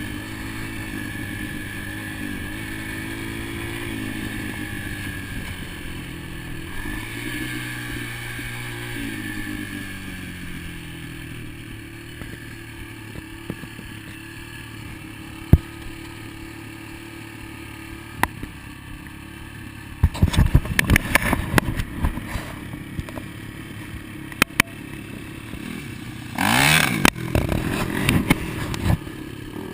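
Dirt bike engines revving and changing pitch as they run, then fading somewhat. In the second half, a run of sharp clattering knocks, and near the end one bike revving up loud and close.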